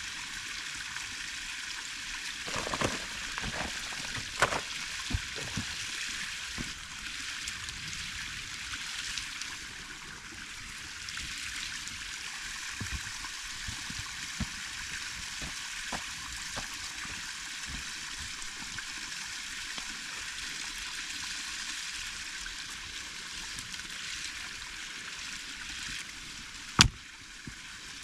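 Creek water flowing steadily, a constant rushing hiss. A few sharp clicks and pops come through in the first few seconds, and one loud, sharp crack comes near the end.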